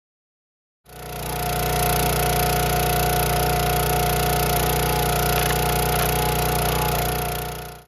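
A small engine running at a steady speed with an even, unchanging pitch. It fades in about a second in and stops abruptly at the end.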